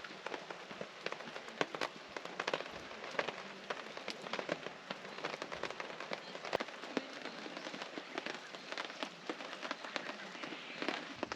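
Rain falling on a camp tarp: a steady hiss with many irregular drops striking the fabric sharply.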